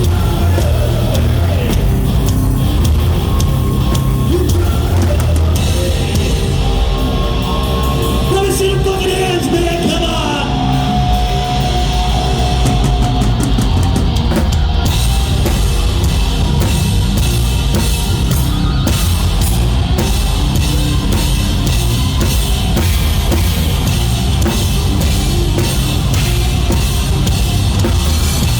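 Rock band playing live at full volume: drum kit, distorted electric guitars and bass in a heavy, driving song.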